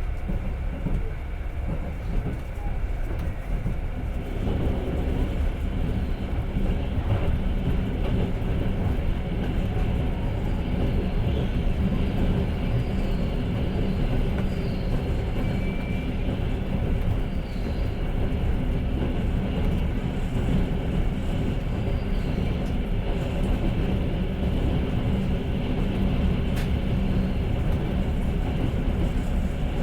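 Running noise of a moving passenger train heard from inside the carriage: a steady, loud rumble of the wheels on the rails.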